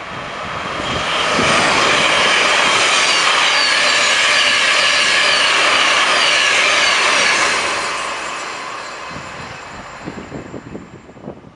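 Electric multiple-unit passenger train passing along the platform, a loud rush of wheel and rail noise. It builds up in the first couple of seconds, holds, then fades away over the last few seconds.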